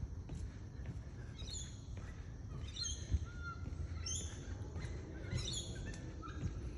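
Wild birds calling in swampy bushland: short high chirping calls, several in quick groups about once a second, with a low rumble underneath.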